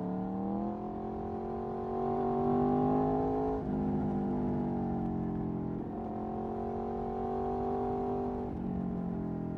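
Aprilia Tuono V4 1100's V4 engine through an Akrapovic Racing exhaust, accelerating hard with the pitch climbing, then dropping sharply at an upshift about three and a half seconds in and again near the end.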